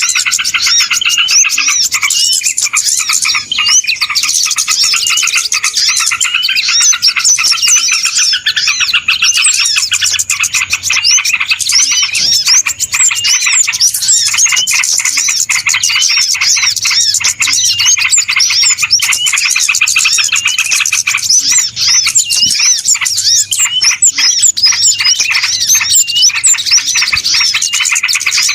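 A dense chorus of many small birds chirping and twittering over one another without pause. It is a busy, noisy lure call meant to draw small birds in.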